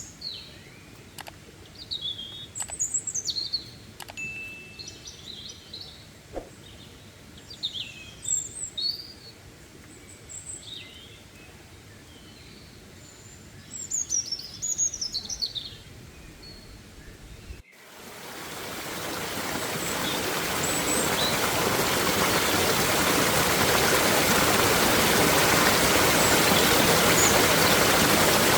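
Wild songbirds chirping and calling in short, varied phrases over a quiet background. After an abrupt cut about two-thirds through, the steady rush of a flowing stream fades in and becomes the loudest sound.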